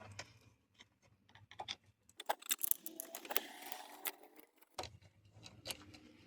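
Small clicks and rattles of a headlight switch and its connector being pried and wiggled loose from a dash, with a busier stretch of rattling in the middle.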